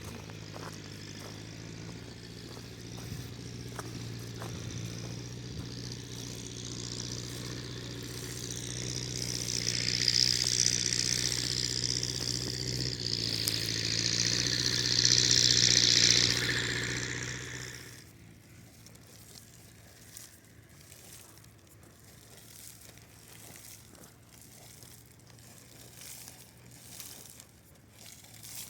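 An engine running steadily, with a hiss that swells and grows louder about ten seconds in, then everything cuts off sharply near eighteen seconds.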